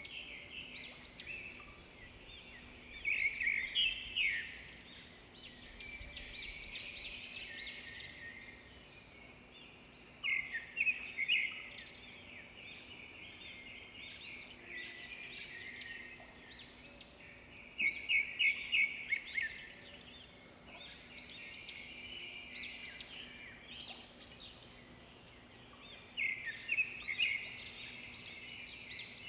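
Several songbirds chirping and singing together, with a louder burst of quick repeated notes roughly every eight seconds.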